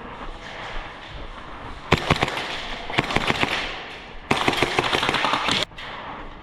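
Airsoft guns firing rapidly: a run of quick shots about two seconds in, then a denser full-auto burst about four seconds in that cuts off suddenly.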